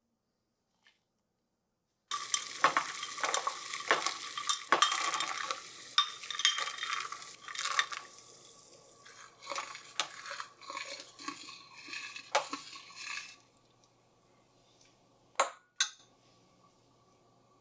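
Food frying and sizzling in a pan while being stirred, with a utensil clinking and knocking against the pan; it starts abruptly about two seconds in and dies down well before the end, followed by two sharp clicks.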